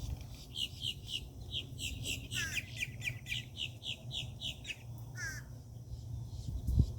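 A bird calling: a fast series of short high chirps, about three or four a second, with a couple of lower down-slurred notes, stopping about five seconds in. Underneath is a steady low rumble.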